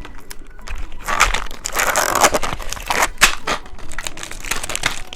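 Plastic candy wrapper crinkling and tearing as a novelty candy package is opened, with a dense crackling rustle, busiest from about one to four seconds in.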